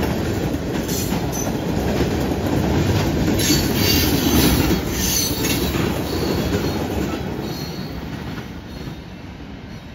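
Freight train's tank cars and covered hoppers rolling past: a steady wheel-on-rail rumble with brief squeals from the wheels, fading over the second half as the end of the train moves away.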